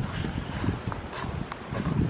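Footsteps of a hiker walking on a woodland trail: irregular steps, each a low thud with a brief rustle.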